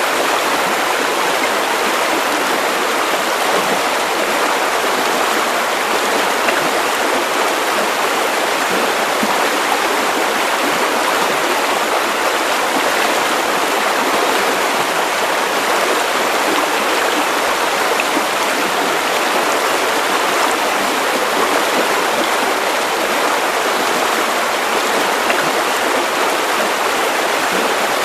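Steady white noise used as a sleep sound: an even, unchanging hiss with little bass.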